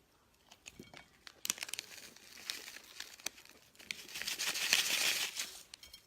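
Close-up crinkling and clicks of food being handled and eaten, denser and louder about four to five and a half seconds in.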